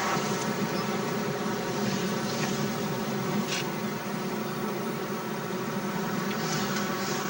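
Steady engine and road noise inside a moving car's cabin, an even hum with a few faint ticks.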